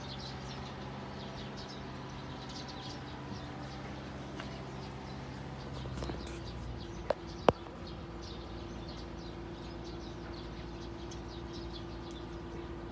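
Small birds chirping here and there over a steady low hum, with two sharp clicks about seven seconds in.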